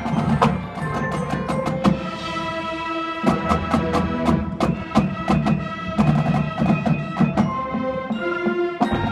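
Marching band playing, led by percussion: many sharp struck notes over sustained low and middle tones, in the sound of mallet and bell instruments with drums.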